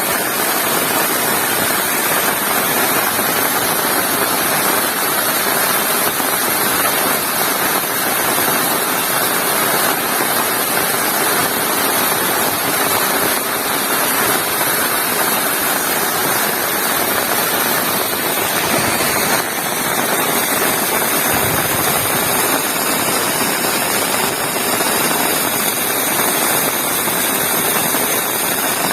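Heavy tropical rain falling steadily: a dense, even hiss of downpour.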